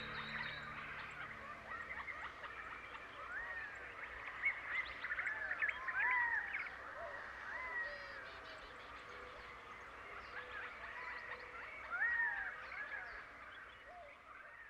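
Several birds chirping and whistling in short rising and falling phrases, fading out near the end. Held low music notes die away about two seconds in.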